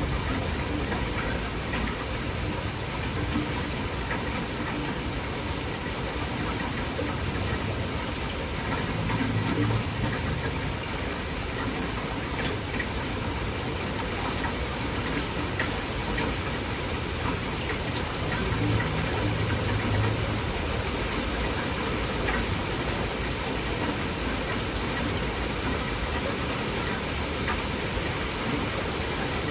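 Heavy rain falling steadily, a dense even hiss, with a low rumble swelling briefly twice, about ten and twenty seconds in.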